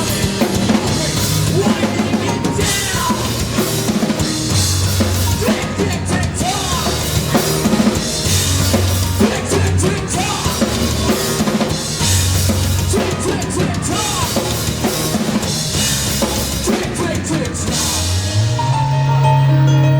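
Live rock band playing loud, driven by a drum kit with bass drum and snare hits over a bass line. Near the end the drums drop out, leaving a held low bass note and a higher sustained keyboard-like tone.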